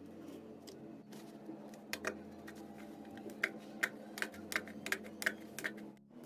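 A series of light, irregular clicks and taps, two or three a second, over a steady low hum.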